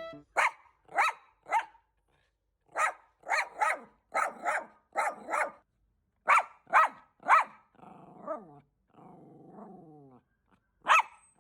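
Small dog, a bichon frise, barking sharply in quick runs of three to four barks, then growling for a couple of seconds and giving one more bark near the end: alarm barking at a stranger, a repairman, in the home.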